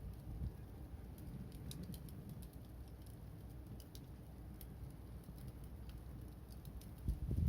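Wood fire crackling with sparse, irregular small pops over a low rumble, and a low thump near the end.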